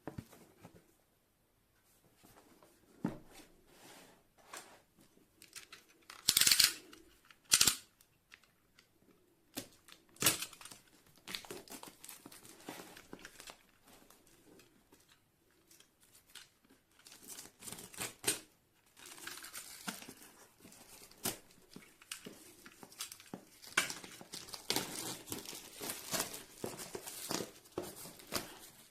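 Packaging being opened and handled: irregular crinkling and tearing of plastic and cardboard, with two loud rips about six and seven and a half seconds in.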